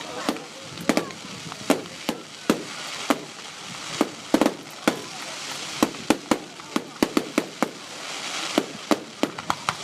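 Firework display: aerial shells bursting with sharp bangs at irregular intervals, about two a second, ending in a quick run of bangs.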